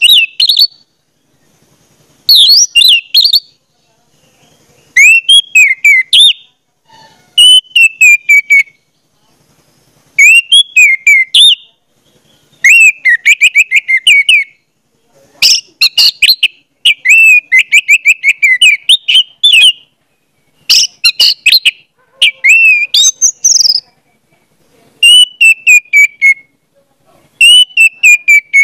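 A bird singing loud, whistled phrases of rapid sliding chirps, each about a second long and repeated every two to three seconds with short pauses between.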